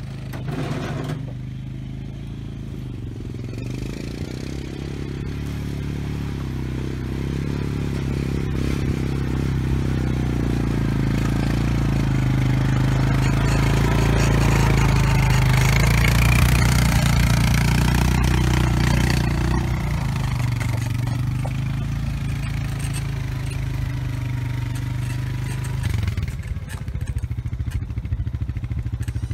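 ATV engine running steadily while it drags a land planer through dirt, growing louder toward the middle and easing off again, with scraping and clatter of soil under the blade.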